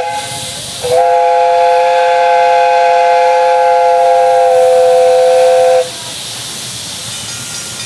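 Chime steam whistle of a 12-inch gauge live steam locomotive blowing one long blast of several notes at once, held about five seconds, then cut off, leaving steam hissing.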